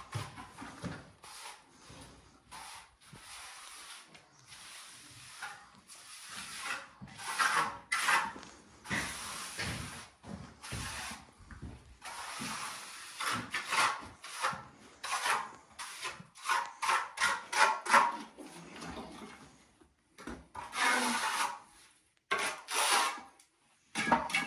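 A hand tool scraping and rubbing against a rough surface in repeated, uneven strokes, like rasping or working a wall.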